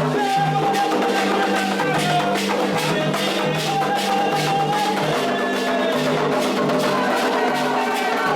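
Candomblé ritual music: atabaque hand drums and sharp struck percussion keep a quick, even rhythm under voices singing long held notes.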